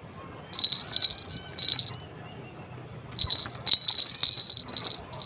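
White-browed crake calls: four short bursts of high, ringing calls, each lasting under a second and coming in a fast stutter.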